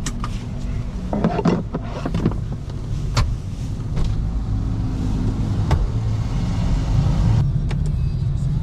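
Steady low rumble of tyre and road noise from a BYD Seagull electric car driving along, with no engine sound. Scattered sharp clicks and knocks, several of them in the first few seconds.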